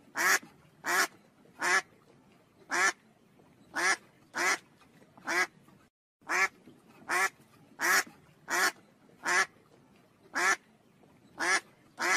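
White domestic ducks quacking repeatedly, short quacks at roughly one a second.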